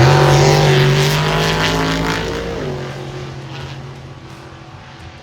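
Drag racing car's engine at full throttle down the strip, its pitch holding high and then dipping once about two and a half seconds in, the sound fading steadily as the car pulls away.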